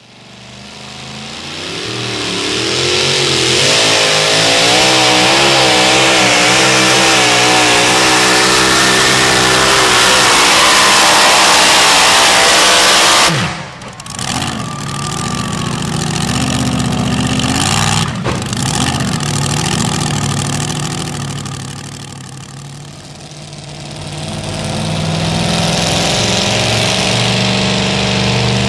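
Super modified two-wheel-drive pulling truck's engine under full throttle in a pull, very loud with a wavering pitch, building over the first few seconds. About 13 seconds in the throttle is chopped and the sound drops off sharply, then the engine runs on at lower revs with occasional revving.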